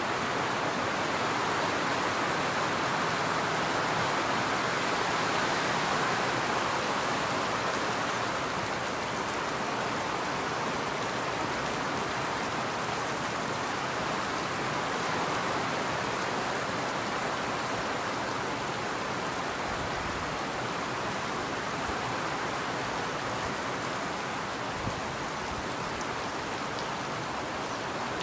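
Torrential rain pouring down, a dense steady hiss that eases slightly after about eight seconds.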